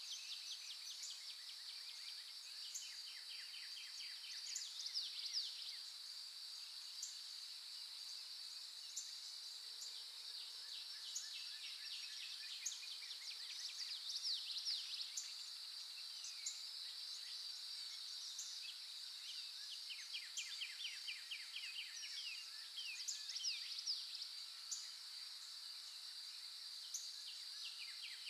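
Steady high-pitched insect drone with bursts of rapid chirping trills and short rising whistles, the same pattern coming round about every nine seconds.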